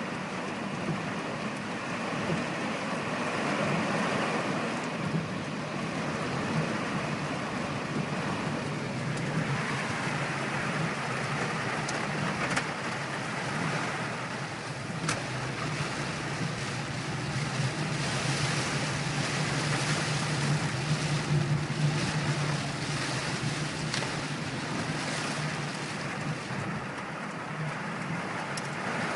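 Torrential rain drumming on a moving car, heard from inside, with a steady low hum of engine and tyres on the flooded road beneath it and scattered sharp drop hits. The rain grows heavier and louder past the middle, then eases slightly near the end.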